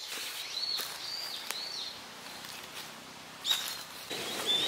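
Birds chirping: short arched notes repeated several times, over a hiss of outdoor background noise. There is a sharp click about a second and a half in, and a brief louder noise about three and a half seconds in.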